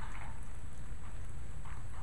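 Steady rain falling, with a few louder single drops splashing close by over a constant low rumble.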